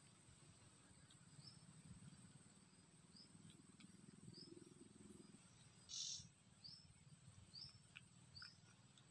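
Faint forest ambience: a bird repeats a short rising chirp about once a second, with a brief louder hissy note about six seconds in and a low rumble under the first half.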